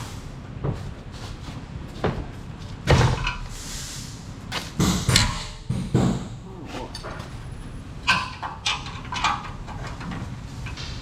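Irregular knocks and clanks of metal parts being handled, with a few louder bangs about three and five seconds in.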